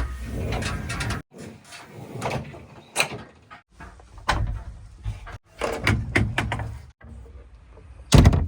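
A string of loud metallic clunks and knocks over a low machine rumble, coming in short stretches that break off abruptly; the heaviest knocks fall right at the start, about three seconds in and near the end.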